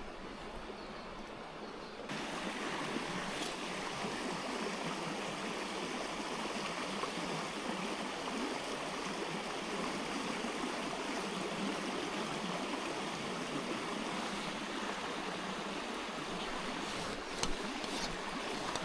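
Mountain stream water rushing over rocks, a steady wash that grows louder about two seconds in. A few short clicks near the end.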